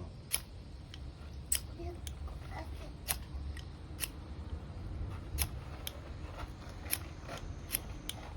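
Ferrocerium fire-starter rod being struck again and again, about a dozen short sharp scrapes at irregular intervals, in repeated attempts to throw sparks onto tinder.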